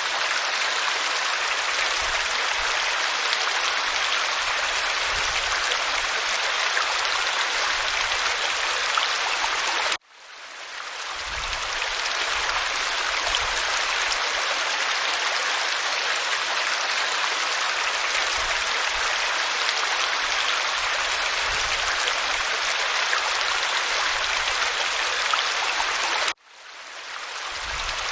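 Waterfall pouring over rock: a steady, even rush of falling water. It cuts out suddenly twice, about ten seconds in and again near the end, each time fading back up over a second or two, as where a looped recording restarts.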